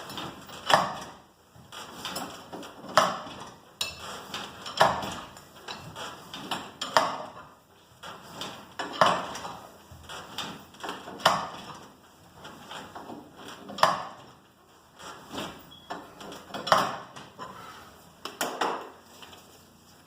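Metal winding bars being worked in the winding cone of a garage door torsion spring, clanking metal on metal about every two seconds as the spring is wound a quarter turn at a time.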